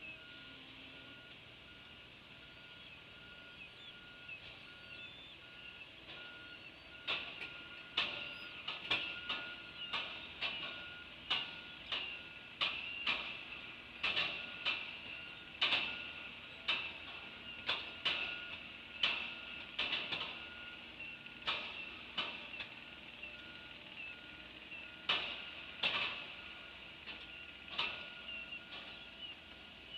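Sharp knocks, roughly one a second, start about seven seconds in over a faint, steady, rapidly pulsing beep.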